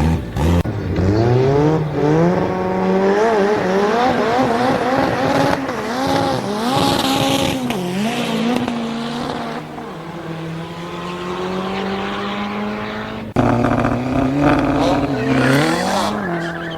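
Sports car engines revving hard at a drag strip, the pitch climbing and dropping several times, with tire squeal. The sound cuts off suddenly about 13 seconds in and gives way to another engine revving.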